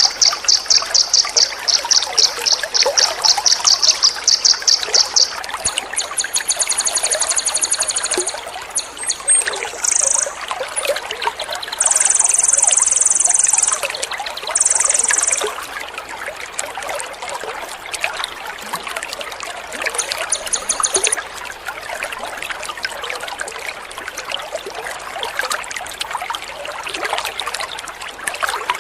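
Water trickling steadily. Over it, a songbird gives rapid repeated high chirps for the first five seconds, then several short high trills, the longest and loudest about twelve seconds in.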